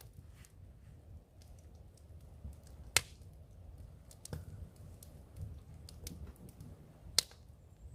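Wood campfire crackling: faint irregular ticks with two sharp pops, one about three seconds in and one near the end.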